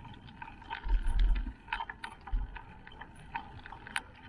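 Wind buffeting the microphone on a moving bicycle, coming in low gusts, with scattered light clicks and rattles throughout.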